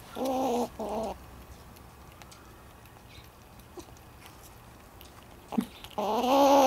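Squirrel giving short calls of even pitch, each about half a second long: two in quick succession at the start and another near the end, with quiet in between.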